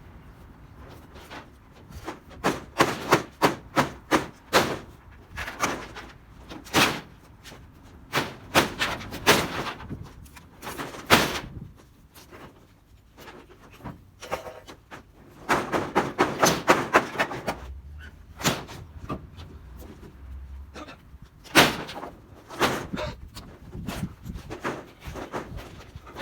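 Corrugated sheet-metal roofing being torn apart and handled: irregular runs of rapid clattering knocks and bangs, with a few single loud bangs and short pauses between.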